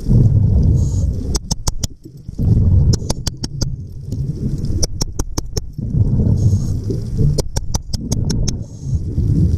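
Underwater sound of a diver breathing: exhaled air bubbles rumble in bursts of a second or two, with trains of sharp clicks several times a second in the gaps.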